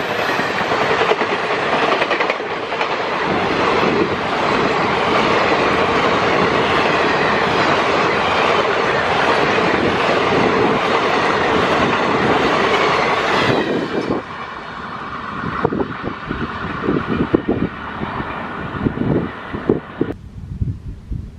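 Passenger train coaches passing close by at speed: a dense rushing rumble and rattle of wheels on rail. About thirteen seconds in the rush drops away and separate wheel clacks over rail joints stand out, and near the end only a low rumble is left as the train moves off.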